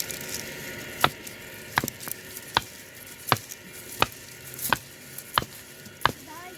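Regular chopping strokes, eight sharp knocks evenly spaced a little under a second apart.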